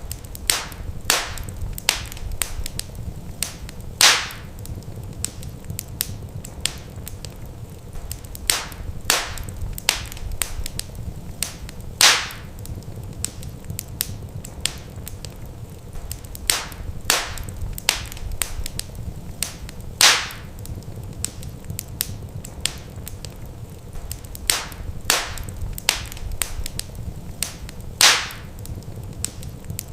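Wood fire crackling, with sharp snaps and pops every second or so over a low steady rumble; the loudest pops come about every eight seconds.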